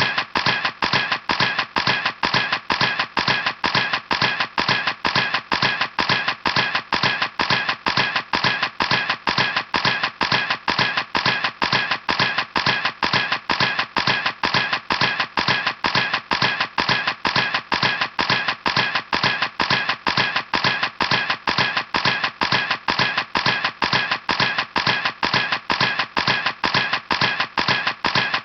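Camera shutter clicking over and over at an even rate, about three clicks a second.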